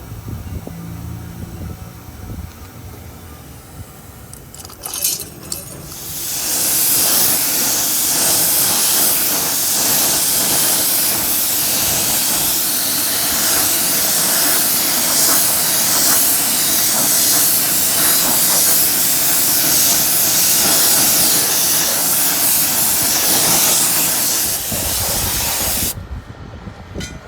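Steady spraying hiss, as from a spray nozzle working on the wheel. It starts about six seconds in, runs for about twenty seconds and stops suddenly near the end, after a few brief clicks just before it starts.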